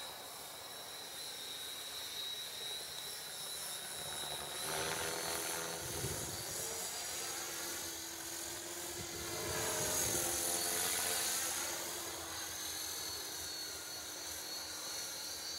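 Small electric radio-controlled helicopter in flight: a high whine from its motor and rotor that swings up and down in pitch as it manoeuvres, loudest about ten seconds in.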